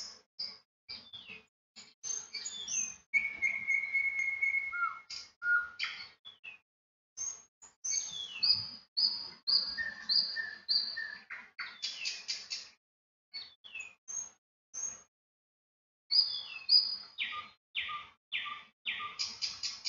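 Small songbirds chirping and singing: quick chirps that sweep downward, a held whistled note about three seconds in, and runs of short repeated notes about twice a second.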